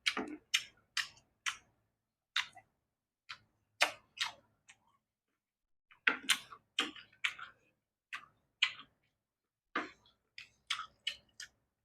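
Close-miked eating sounds: irregular wet clicks and smacks of chewing and lips, in short clusters with brief pauses.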